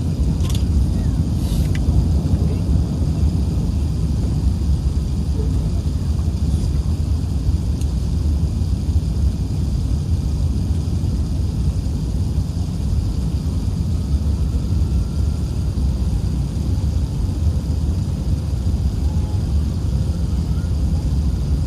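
Steady low rumble of an Airbus A380-861 heard from inside the passenger cabin: its Engine Alliance GP7200 engines and the airflow, with a couple of faint clicks in the first two seconds.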